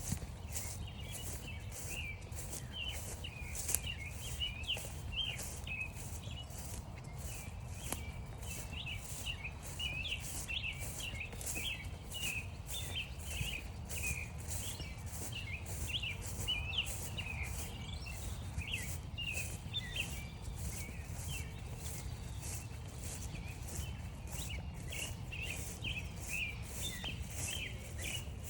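Footsteps crunching steadily through frost-stiffened grass, about two steps a second, with small birds chirping and twittering throughout and a low rumble underneath.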